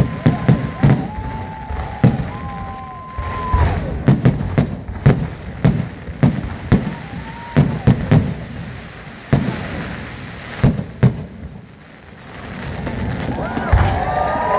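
Fireworks display: aerial shells going off in a rapid, uneven series of bangs and crackles. The bangs ease off about twelve seconds in, and a crowd's voices and cheering swell near the end.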